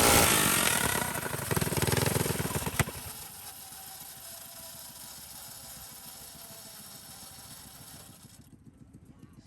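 Small single-cylinder mini bike engine running loudly, its pitch shifting up and down. It cuts off abruptly about three seconds in, leaving only a faint steady background noise.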